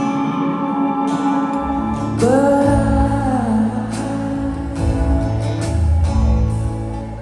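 Live band playing a song: a bass line comes in under the music, and about two seconds in a singer holds a long note with vibrato over bass and regular drum hits.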